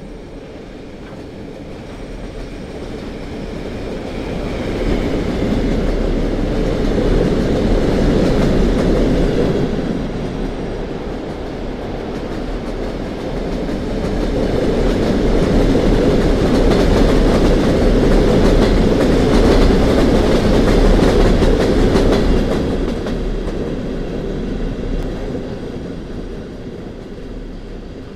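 2TE116U two-section diesel locomotive hauling a passenger train past, its engine sound and the rolling of wheels clicking over the rail joints. The sound swells, eases off briefly, swells again and then fades away.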